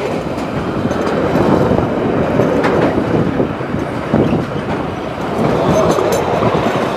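Freight train of hopper and tank wagons passing close by, with steel wheels rumbling continuously and clattering over the rail joints.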